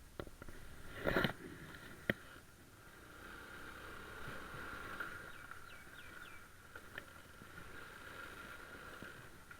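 Quiet outdoor background: a steady high hum, with a quick run of four short chirps in the middle and a few faint knocks and a brief rustle near the start.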